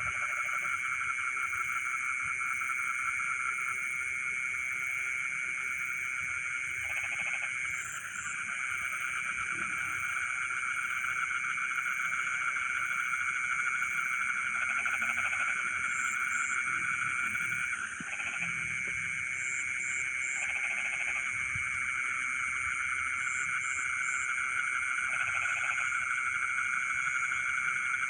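A dense night chorus of frogs in a flooded rice field, with a continuous high trilling and a lower croak repeating every few seconds, under steady insect buzzing.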